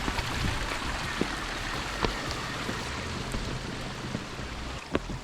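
Rainwater running down a flooded trail, with rain falling: an even rushing, trickling hiss broken by a few sharp ticks.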